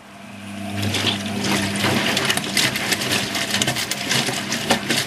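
Hoover HTC 172 washing machine starting up with a steady low hum while water rushes and splashes inside, growing louder over the first second and staying loud with many small knocks.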